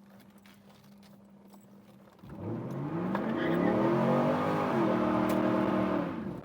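LS1 V8 of a 1998 Pontiac Firebird Formula WS6 with a muffler-delete single exhaust, coming in suddenly about two seconds in. It rises in revs, then settles to a steady note and cuts off near the end.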